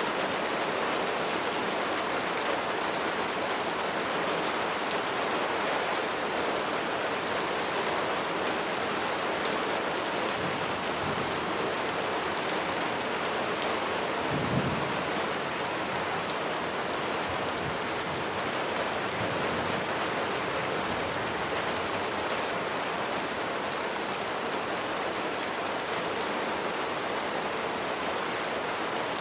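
Steady, heavy rain falling on surfaces, a dense hiss flecked with individual drop hits. A brief low rumble of thunder swells about halfway through.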